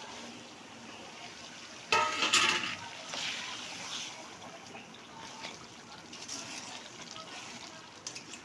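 A metal pot lid clanks sharply about two seconds in, ringing briefly. Afterwards the curry simmers in the uncovered pot with a soft liquid hiss.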